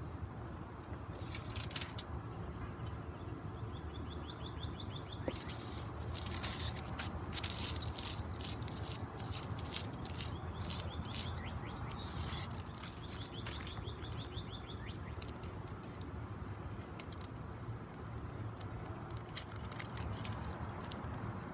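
Aluminium foil crinkling and rustling in short bursts as it is handled, over a steady low hum. Twice there is a quick high chirping trill.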